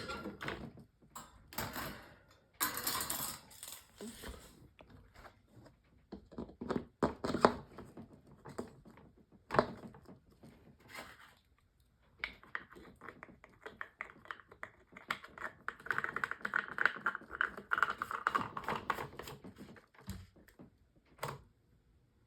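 Irregular plastic clicks, taps and clatter of a 12-inch Climate Keeper table fan being handled and taken apart by hand to remove its grille.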